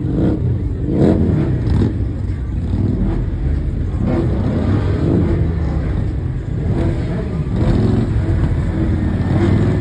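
Car engine revving again and again over a steady low rumble of running engines.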